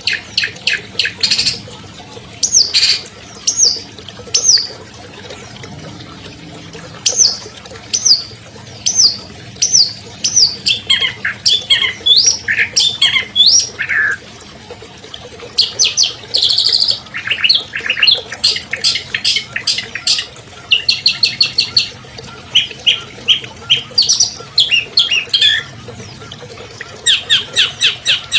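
Long-tailed shrike (cendet) singing in bursts: fast runs of sharp chirps, series of repeated downslurred whistles and jumbled, squawky varied phrases, separated by short pauses.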